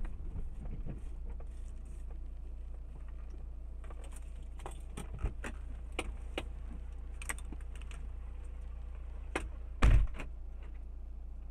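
Steady low hum of a car in motion, with scattered light clicks and one brief heavy thump about ten seconds in.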